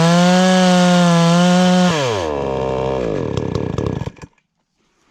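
Two-stroke chainsaw on a chainsaw mill running at full throttle through a log. About two seconds in the throttle is released, the revs wind down, and the engine stops about four seconds in as the leveling cut is finished.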